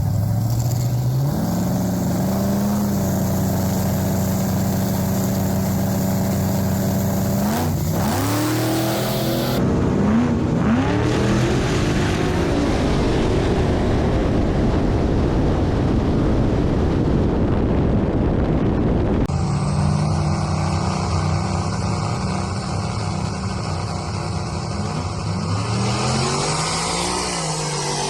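Drag race car engines idling and revving, with a long stretch of loud, even engine and tyre noise in the middle. After an abrupt change partway through, an engine idles again and revs up and back down once near the end.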